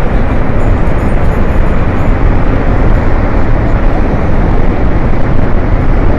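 Glacial-outburst flash flood: a torrent of water and debris rushing down a river valley, a loud, steady rushing noise with a heavy low rumble.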